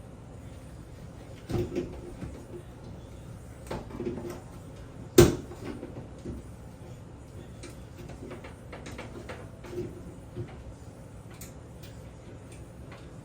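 Scattered knocks and clicks of hands working on a bathroom exhaust fan housing, with one sharp knock about five seconds in the loudest.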